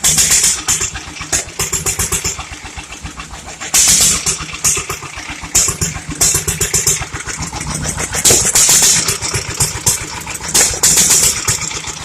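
1936 IHC LA single-cylinder engine running steadily with rapid, even firing beats, opened up wide just after a cold start so that it burns the carbon out. Bursts of higher hiss come and go over the beat.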